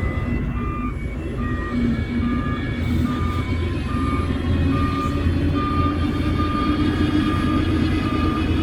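A heavy earthmoving machine's reversing alarm beeping steadily, a little faster than once a second, over the low rumble of diesel engines, which grows a little louder about three seconds in.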